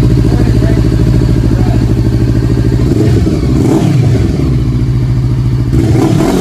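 Honda CBR500R's parallel-twin engine idling, revved twice: the pitch rises and falls back about three seconds in and again near the end.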